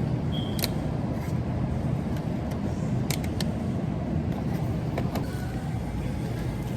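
Pickup truck driving, heard from inside the cab: a steady low rumble of engine and road noise, with a few faint clicks about three seconds in.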